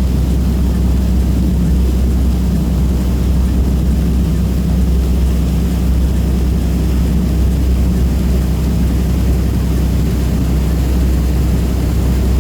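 Passenger catamaran ferry's engines running at a steady cruise, a low even drone with no change in pitch or loudness.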